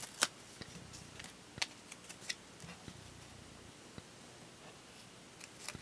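Scrapbooking paper and tools being handled on a craft table: a few sharp, scattered clicks and taps with faint rustling between them.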